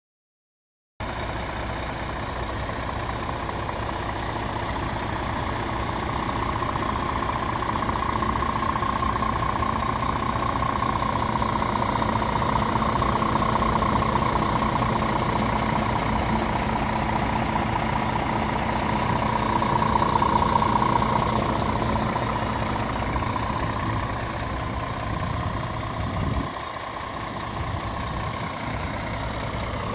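Scania R450's 13-litre six-cylinder diesel engine idling steadily, starting about a second in.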